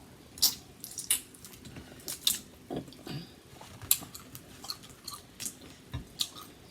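Close-up mouth sounds of someone eating: chewing and wet lip smacks, with irregular sharp clicks every half second or so.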